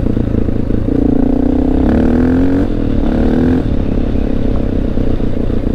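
Honda XR650L's single-cylinder four-stroke engine under hard acceleration on gravel. The pitch climbs from about a second in, drops briefly at an upshift, climbs again, then settles into a steady run.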